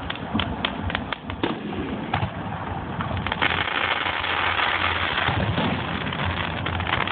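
Fireworks going off: a quick run of sharp bangs and crackles in the first second and a half, then a couple of seconds of dense crackling.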